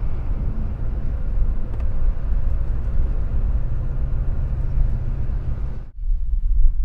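A vehicle engine running under way: a steady low rumble with road noise. It breaks off sharply about six seconds in, then carries on.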